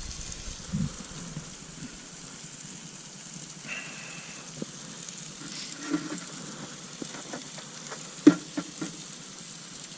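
Peppers sizzling as they fry in a Ridgemonkey pan: a steady hiss with scattered small clicks and knocks, the loudest a sharp knock about eight seconds in.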